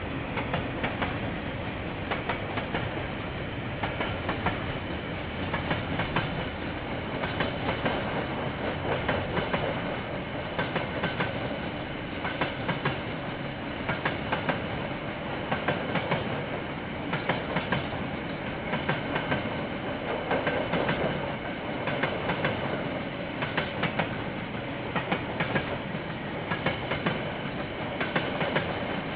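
A train's wagons rolling steadily past, the wheels clacking over rail joints in repeated clusters every second or two.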